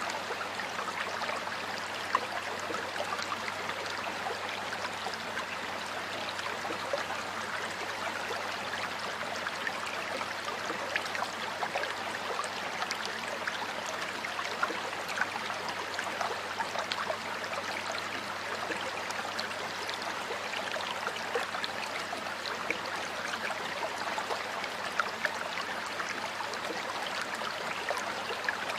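Stream of water flowing steadily over rocks, an even rushing with small splashes and gurgles scattered through it.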